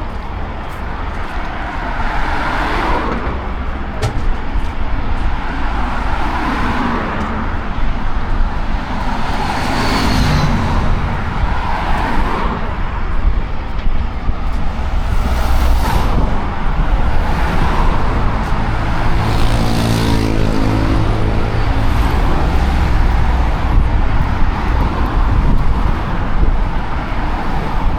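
City traffic noise: a steady wash of passing cars and other road vehicles, with voices faintly in the mix. About two-thirds of the way through, one vehicle's engine hum swells and fades as it goes by.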